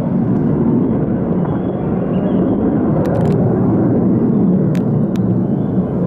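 Military fighter jets taking off, their engines giving a loud, steady, deep roar, with a few faint clicks near the middle.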